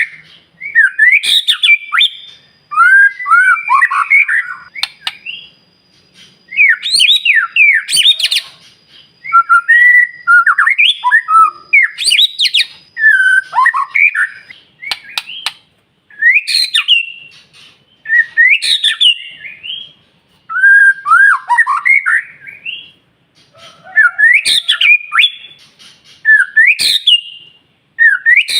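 White-rumped shama (murai batu) singing in loud, separate phrases of fast rising and falling whistled notes, one phrase about every two seconds, with a few sharp clicks between them.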